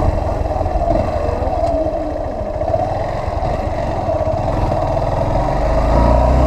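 Motorcycle engine running while riding, a steady wavering drone over a low rumble, with a deeper tone building near the end.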